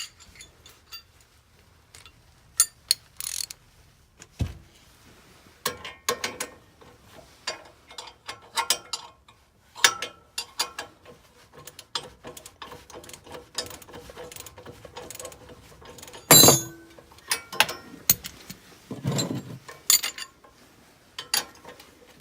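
Socket ratchet clicking in quick, irregular runs as the bolts holding a garden tractor's rear hitch are turned out, with occasional metal clanks. The loudest clank comes about two-thirds of the way through.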